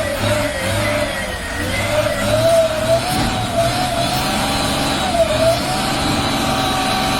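A motor vehicle running, with a steady whining note that rises and falls slowly over a low rumble.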